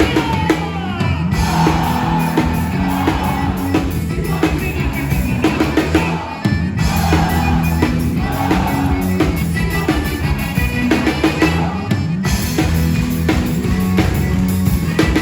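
Band music with a drum kit and a steady, repeating bass line, with a wavering melody line, possibly a voice, over it.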